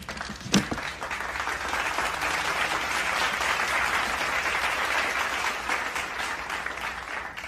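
Crowd applauding, a dense clapping that swells over the first couple of seconds, holds, and thins out near the end.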